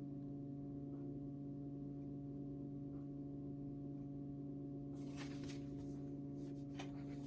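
A steady low background hum made of several held tones, with faint rustling about five seconds in and again near the end.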